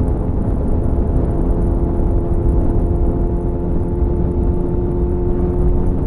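Suzuki GSF 600 Bandit's air/oil-cooled inline-four running at nearly steady revs through an aftermarket SC-Project CR-T–style exhaust fitted with a home-made dB killer.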